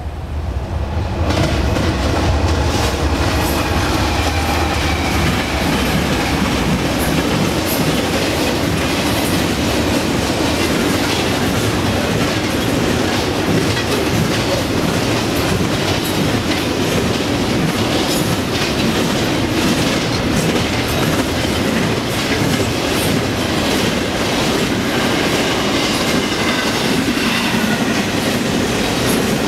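A fast double-stack intermodal freight train passing close by. Its sound rises sharply about a second in, then holds as a steady rush of rolling cars, with wheels clicking over the rail joints.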